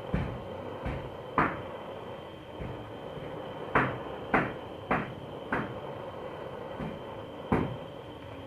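Sharp clunks and clicks at irregular intervals, about nine in all, over a steady background hiss.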